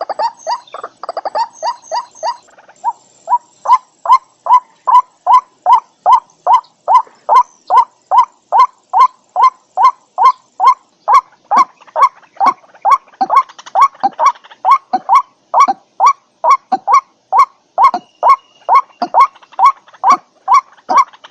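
White-breasted waterhen calling: a loud, steady run of repeated harsh calls, about two to three a second, unbroken throughout.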